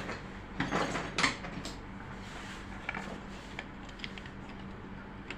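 Metal parts of a Butterfly sewing machine clicking and rattling as its mechanism is worked during a needle-timing check. A flurry of clicks comes in the first second and a half, then scattered lighter ticks.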